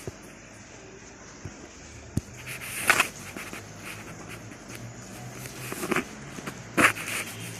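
Rain falling steadily, with scattered drips ticking on a surface. Two louder sudden sounds break in, about three seconds in and again near the end.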